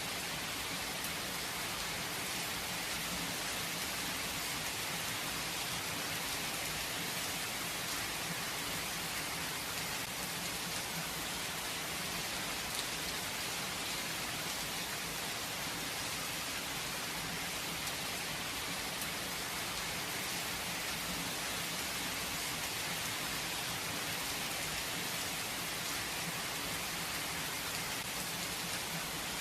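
Steady rain falling and pattering on surfaces, an even hiss with fine scattered drops and no thunder.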